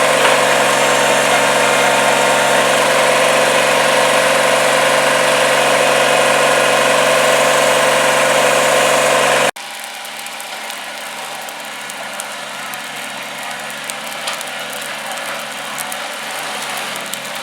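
Engine running steadily at a constant speed, cut off abruptly about halfway through, after which there is a much quieter background with scattered small clicks and knocks.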